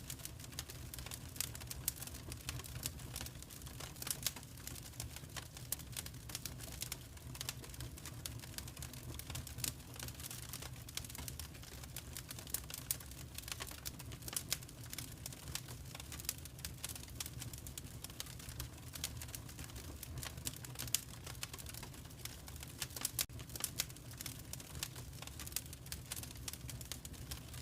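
Fire crackling in a fireplace: many irregular small crackles and pops over a steady low rumble.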